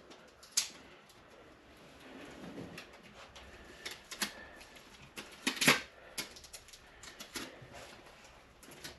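Scattered clicks and crackles from handling a dryer vent duct while it is resealed with ducting tape, loudest in a cluster a little past the middle.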